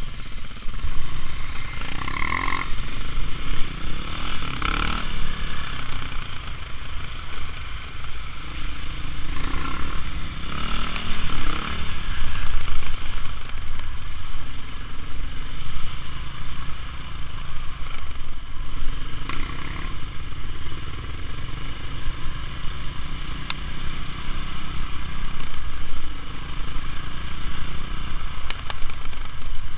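Off-road motorcycle engine heard from the rider's own bike, its revs rising and falling again and again as it is ridden along a rough trail, with a few sharp clicks.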